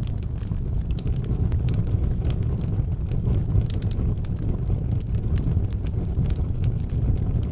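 Fire crackling in an outdoor fireplace: a steady low rumble of burning with frequent sharp, irregular crackles and pops.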